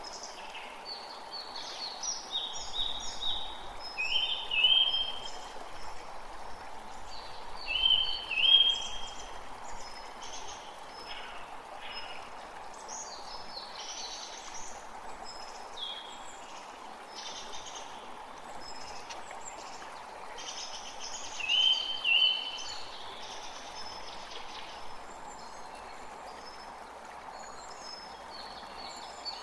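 Creek water flowing steadily, with several birds singing and calling over it; the loudest calls are a quick pair of short notes that come three times.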